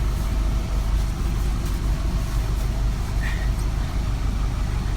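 Rental truck's engine idling with a steady low rumble, and one brief high chirp about three seconds in.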